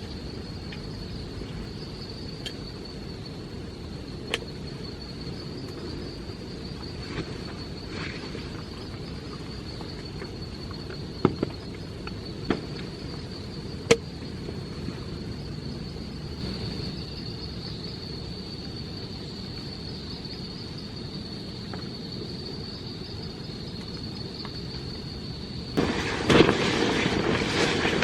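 Insects chirring steadily at one high pitch over a low, steady rumbling noise, with a few scattered sharp taps. About two seconds before the end a much louder, rough noise sets in.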